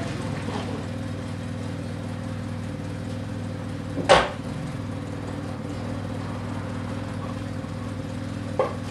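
Engine of a cut-down Saab idling steadily, with one loud sharp knock about four seconds in and a lighter knock near the end.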